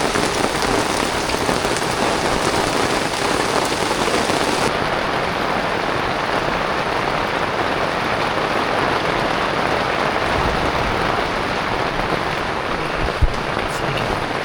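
Heavy rain pouring down steadily, a dense, even hiss of drops hitting surfaces. A single sharp knock sounds about thirteen seconds in.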